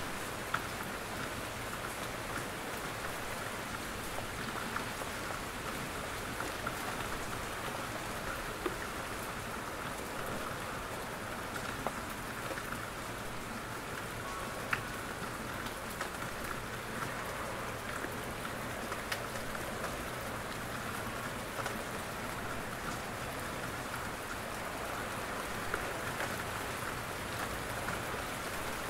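Steady rain falling in a forest, with scattered louder drops from the trees landing close by as sharp individual taps.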